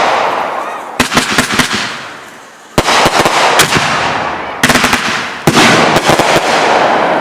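Consumer fireworks going off: loud bangs about a second in, near three seconds, and twice near five seconds. Each bang is followed by a run of sharp crackling pops and a hiss that fades over a second or two.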